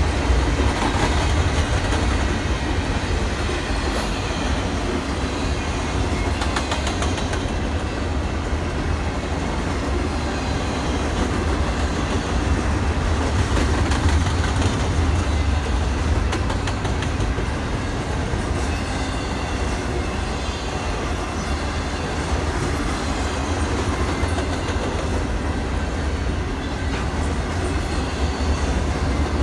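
Train running along the tracks: a steady, continuous rumble with wheel clatter over the rails.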